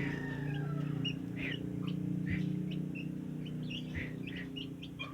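Yellow-vented bulbul giving short, scattered chirps and call notes rather than a full song, over a steady low hum.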